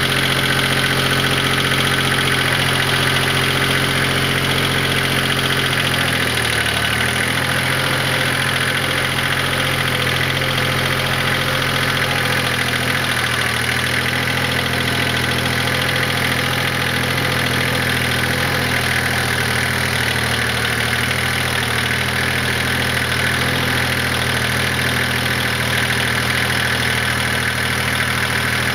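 Kioti LB1914 compact tractor's diesel engine running steadily, its pitch dipping briefly about six seconds in before settling again.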